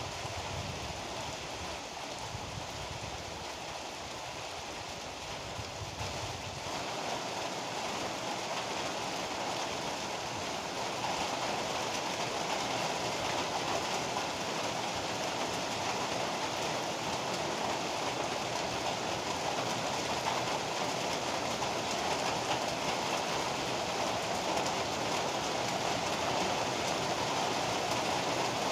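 Heavy rain falling steadily in a storm, a dense even hiss. A low rumble underneath dies away about six seconds in, and the rain grows slightly louder after that.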